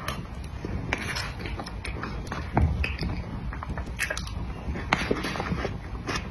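A person chewing and eating cream cake, with irregular mouth and lip clicks several times a second.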